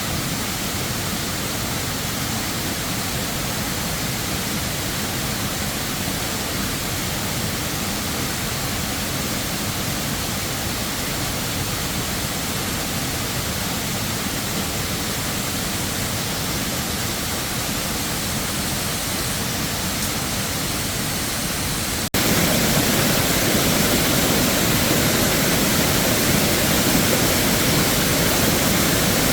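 Waterfall water rushing in a steady roar-like hiss; about 22 seconds in it cuts abruptly and comes back louder and fuller.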